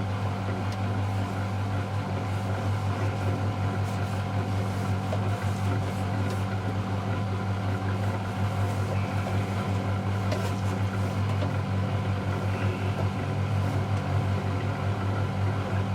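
Miele Novotronic W715 front-loading washing machine running with a steady low hum that holds an even level throughout.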